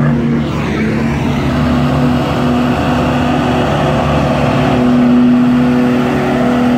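Nissan Patrol 4x4's engine running hard as it drives over rough ground, its note held steady through the second half.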